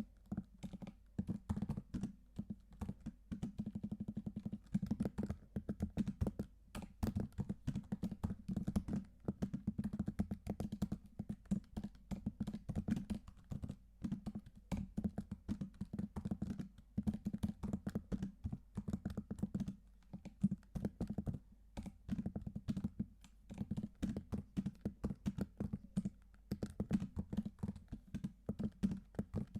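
Steady, fast typing on a computer keyboard: a dense run of keystroke clicks, broken by a few short pauses.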